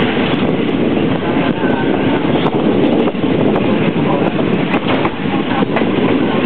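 Train running along the track: a steady loud rumble with scattered sharp clicks.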